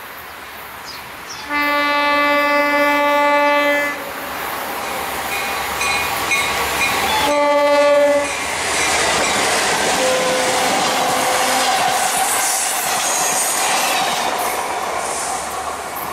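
Horn of an FEC EMD SD40-2 diesel locomotive: a long blast, then a short one, after which the two locomotives and their train pass close by with engine and wheel noise.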